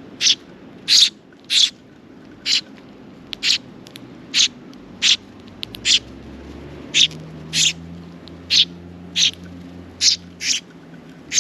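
Sparrow chirping over and over in short, sharp single chirps, about one to two a second, with a brief pause midway.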